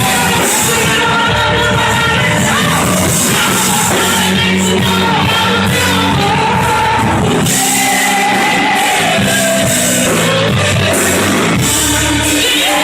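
Loud Christian band music with a singer, the full band playing without a break.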